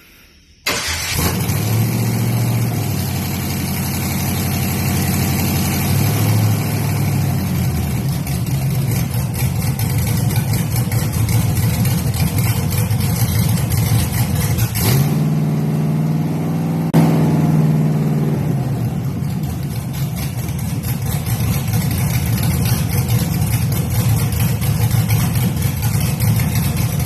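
GM 5.3-litre V8 in a 2001 Chevrolet S-10 firing up for the first time after an engine swap. It catches abruptly under a second in and runs steadily at idle. About halfway through it is revved up for roughly two seconds, then drops back to idle.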